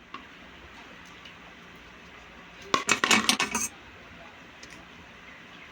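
A brief rattle of small hard pieces clinking together, a quick run of sharp clicks lasting about a second, a little under three seconds in.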